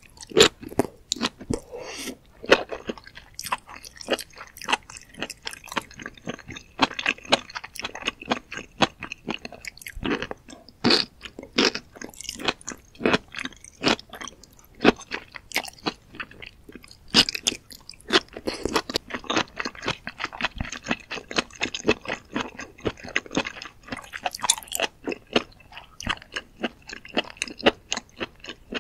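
Close-miked ASMR chewing and biting of beech mushrooms in spicy red sauce: a dense, unbroken run of quick sharp clicks and mouth sounds.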